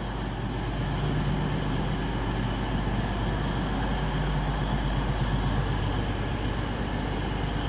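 Diesel engines of a CrossCountry Class 170 Turbostar diesel multiple unit running as it departs, a steady drone that grows a little louder over the first couple of seconds.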